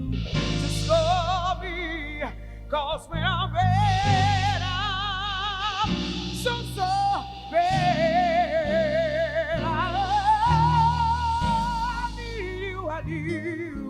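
Live soul band playing, with a female lead singer holding long, wavering notes with heavy vibrato over the bass and keyboards, and no clear words.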